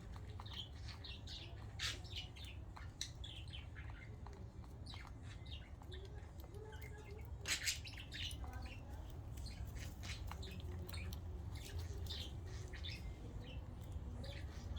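Pet budgerigars chirping and chattering in short scattered calls, with a louder sharp sound about 2 seconds in and another about 7 seconds in.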